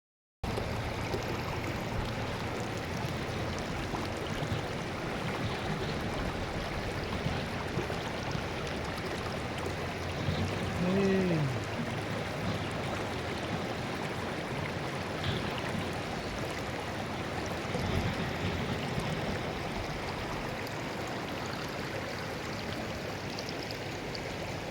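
Stream running, a steady rush of flowing water. About halfway through, a short pitched sound rises and falls, like a voice, over the water.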